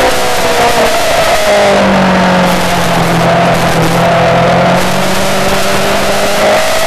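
Yamaha R6 sport bike's inline-four engine running hard with a loud rush of wind noise; the engine pitch drops over the first few seconds as it slows, then climbs again near the end as it accelerates.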